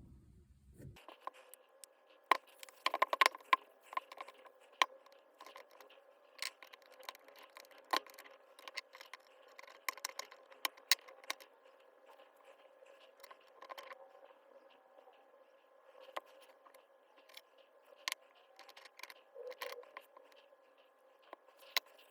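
Irregular clicks, taps and scrapes of small metal parts and hand tools being handled while a cordless hammer drill is taken apart, with a cluster of sharper knocks a few seconds in, over a faint steady hum.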